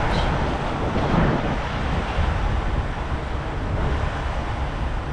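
Wind blowing on the microphone over a steady low rumble, with a few brief gusts.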